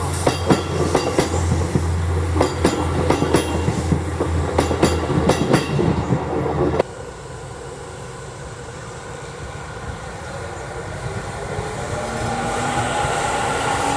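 A Seibu New 101 series train running in with rapid wheel clicks over rail joints above a steady low hum, cut off abruptly about seven seconds in. Then a Tokyu 5050 series train's running noise, quieter, with a rising electric motor whine near the end as it accelerates.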